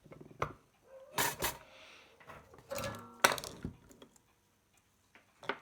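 Small metal tools clinking and tapping on a workbench: a few sharp knocks, one briefly ringing about three seconds in, while an amplifier IC on a car stereo board is being readied for soldering.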